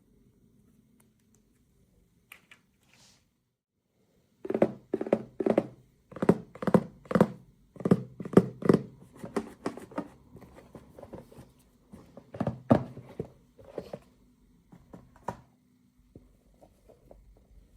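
A run of quick knocks and clacks from small objects being handled, likely toy miniatures and their packaging being unpacked. It starts a few seconds in, is densest through the middle, and stops a couple of seconds before the end.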